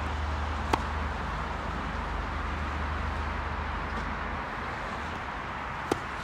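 Two tennis balls struck by a racket, sharp single hits about five seconds apart, over a steady background hiss and a low hum that fades about halfway through.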